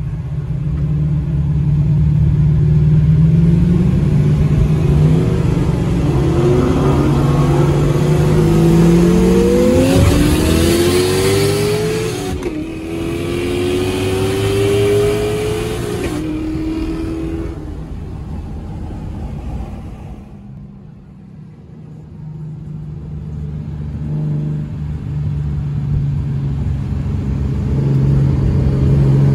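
Car engine held at a steady note, then accelerating hard with its pitch climbing, breaking off at two gear changes about 12 and 16 seconds in, and fading away into the distance. Another car engine rises again near the end.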